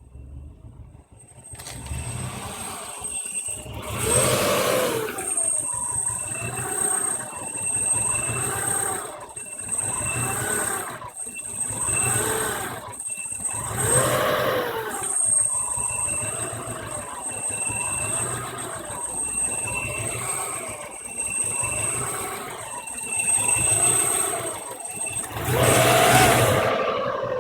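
1993 Subaru EJ22 2.2-litre flat-four engine with a rough idle, coming in about a second and a half in; its speed and loudness rise and fall about every two seconds, with a few bigger surges, the largest near the end.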